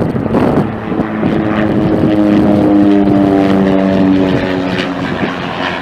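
Aircraft engines passing close: a steady droning tone that swells in the middle and fades near the end, over wind buffeting the microphone.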